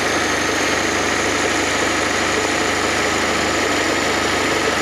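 Fiat FIRE four-cylinder petrol engine of a Fiat Panda 4x4 idling steadily, running with a newly fitted water pump.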